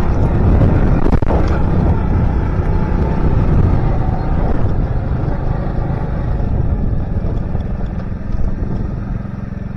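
Small Alpha 110 cc motorcycle engine running during a ride, mixed with a loud rush of wind and road noise. The sound eases down near the end and settles into a steadier, lower engine note.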